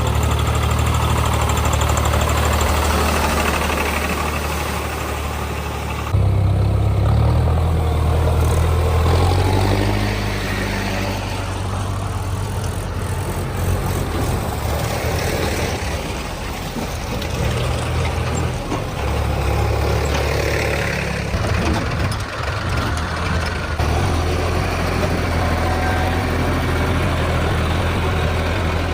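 Diesel tractor engines running hard, their pitch and level shifting abruptly several times.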